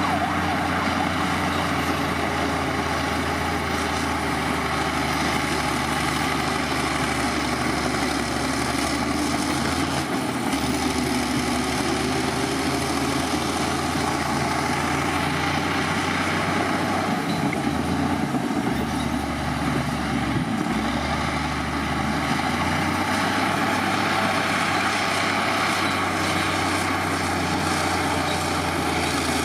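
Heavy diesel earthmoving machinery running steadily, with a deep engine hum whose note briefly drops and shifts a few times partway through.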